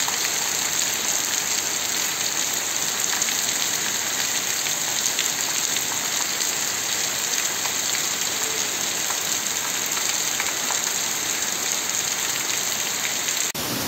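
Heavy rain falling steadily on a cobbled street and rooftops, a constant hiss of downpour.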